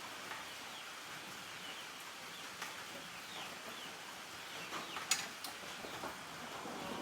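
Chickens clucking faintly in the background, with a few sharp clicks about midway through.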